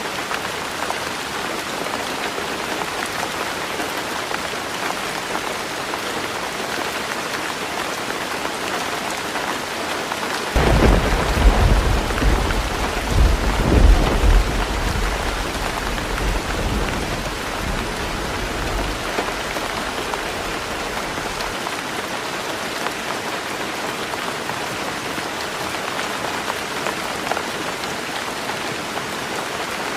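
Heavy rain falling on a tin roof. About a third of the way through, a deep rumble of thunder breaks in suddenly, swells for a few seconds, then rolls away over the next several seconds.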